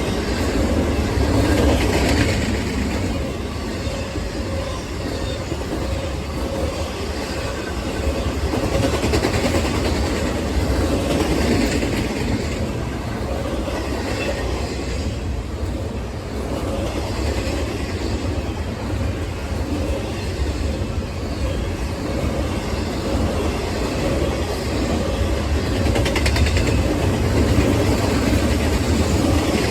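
A train rolling past on the tracks: a steady, loud rumble of wheels on rail with clickety-clack.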